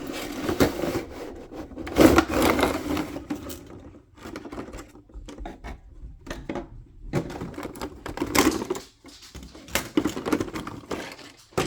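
Toy packaging being opened by hand: irregular rustling, tearing and clicking of cardboard and plastic in bursts, loudest about two seconds in.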